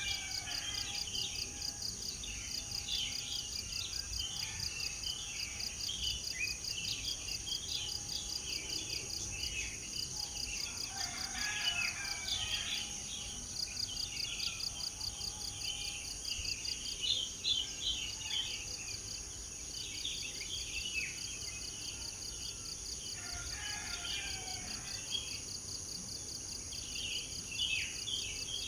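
Several birds singing and chirping in scattered bursts of quick phrases over a steady, high, rapidly pulsing insect trill.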